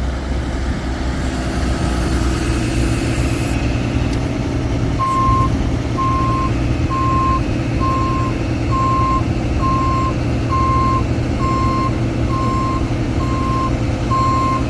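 A truck's 6.7-litre Cummins diesel runs steadily. From about five seconds in, a high single-tone warning beeper sounds at a little more than one beep a second, as the chip dump bed is being raised.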